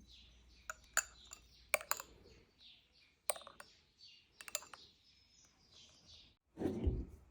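Kitchen utensils and dishes clicking and clinking against one another, with a louder dull thump of something set down near the end.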